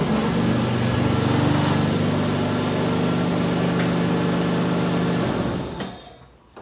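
Toyota JZX81's straight-six engine running at a steady idle, then switched off about five and a half seconds in and quickly winding down to stillness.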